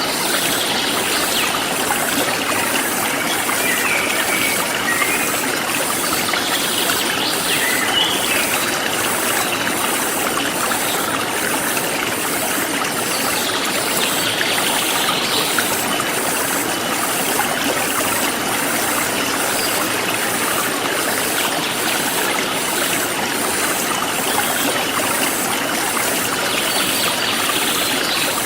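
A forest stream flowing steadily over stones. A high insect call pulses a little more than once a second above it, and now and then a bird chirps.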